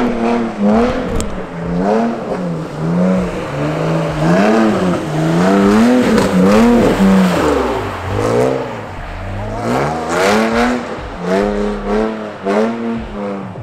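Car engine revving up and down in quick repeated swings, rising and falling about every second, as the car is drifted on the throttle; around the middle the revs sink low and then climb back.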